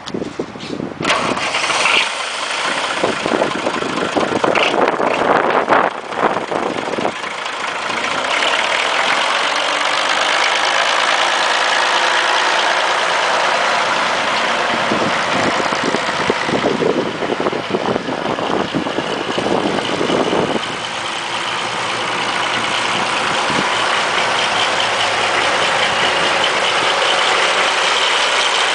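Massey Ferguson 1075 tractor's diesel engine starting about a second in. It runs unevenly for several seconds, then settles into a steady idle.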